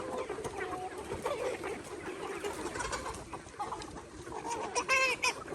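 A flock of chickens clucking, many calls overlapping, with one louder call near the end.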